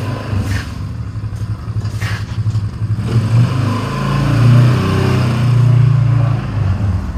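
1960s Johnson Seahorse two-stroke outboard motor running, its pitch rising and falling with the throttle, loudest about halfway through.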